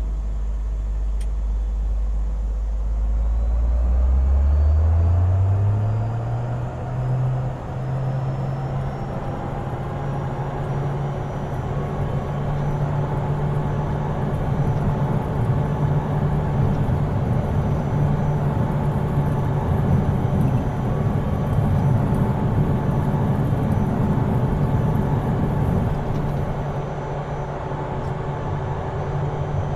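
Pilatus aircraft engine powering up for takeoff: a low drone rises in pitch over the first six or seven seconds, then holds steady and loud through the takeoff run and climb.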